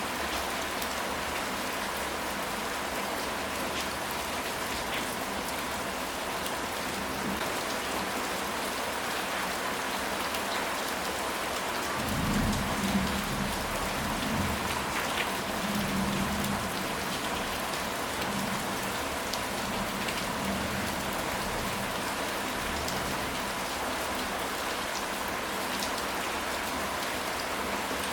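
Steady rain pattering, with a low rumble of distant thunder starting about twelve seconds in and fading over the next few seconds.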